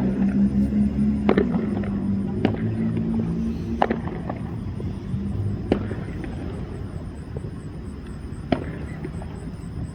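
Fireworks going off, about five sharp bangs spaced irregularly a second or more apart. Music plays over the first few seconds and fades out.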